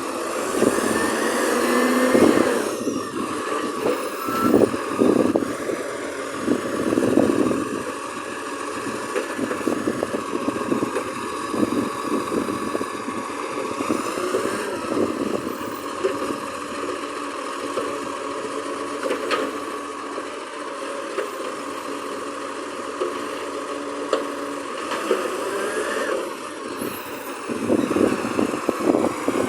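Garbage truck engine running, its level rising and falling, with a steady whine over it.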